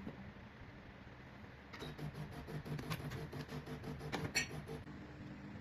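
HiBREW H10A espresso machine's pump running during extraction: a faint, evenly pulsing hum that starts about two seconds in and stops near the end, with a sharp click shortly before it stops.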